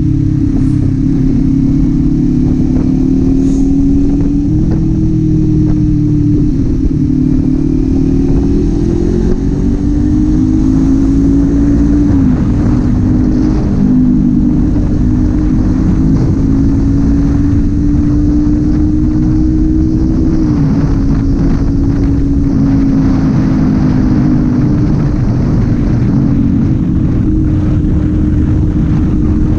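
Kawasaki Z400's parallel-twin engine running under way, its note slowly rising and falling with the throttle and dropping sharply a few times, about a third and two-thirds of the way through, as the throttle closes or gears change.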